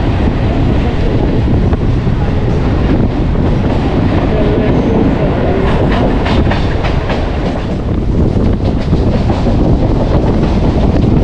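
Mumbai suburban electric local train running between stations, heard from on board: a steady, loud rumble of wheels on the rails with a clickety-clack of rail joints.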